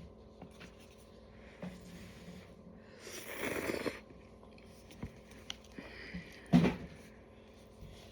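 Eating sounds over cup noodles: small mouth and utensil clicks, a breathy slurp about three seconds in, and a sharp knock about six and a half seconds in.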